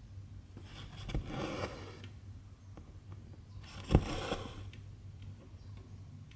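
Silk embroidery thread drawn through cross-stitch fabric: two swishing pulls, about a second in and about four seconds in, each starting with a sharp tick of the needle through the cloth.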